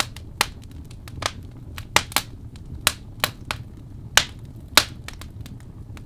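Wood fire crackling: irregular sharp pops and snaps from burning logs, several a second, over a steady low rumble of the flames.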